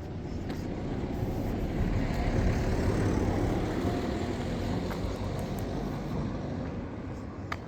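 A road vehicle passing by: a broad rushing noise that swells to its loudest about two to three seconds in, then fades away. A single sharp click comes near the end.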